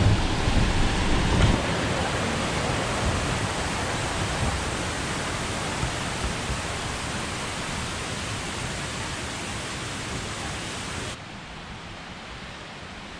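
Steady rushing water, like a mountain stream or small waterfall, with some wind buffeting the microphone in the first second or so. Near the end it drops suddenly to a quieter hiss.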